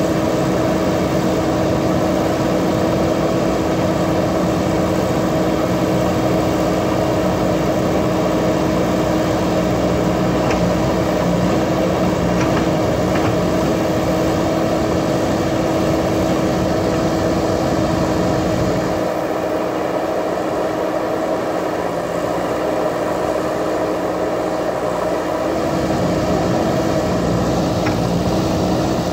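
JCB backhoe loader's diesel engine running steadily, its low note thinning out for several seconds past the middle before returning.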